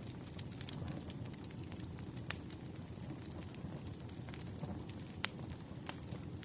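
Wood fire burning, a steady low rumble with scattered crackles and pops; two sharper pops stand out, about two and five seconds in.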